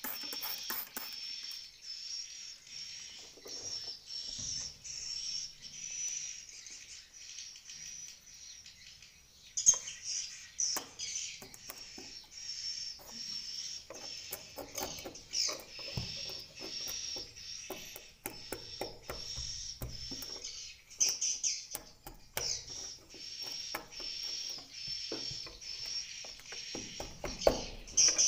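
Swiftlets twittering: a dense stream of short, high, rapid chirps, several a second, the typical sound inside a swiftlet nesting house. A few soft knocks sound under them.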